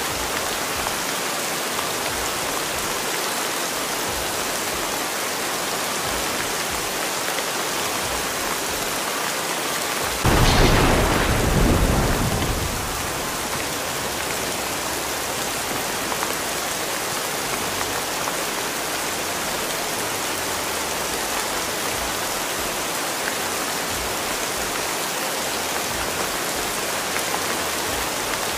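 Steady rain hiss. About ten seconds in, a roll of thunder breaks in sharply and fades out over two to three seconds.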